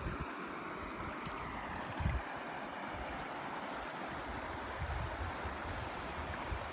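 A river flowing with a steady rushing hiss, while gusts of wind buffet the microphone with low rumbles, about two seconds in and again later.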